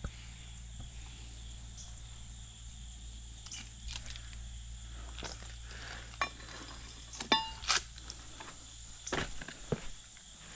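Stones and metal knocking and clinking as someone sifts through a rocky creek bed by hand, with two sharp ringing clinks about seven seconds in and a run of knocks near the end.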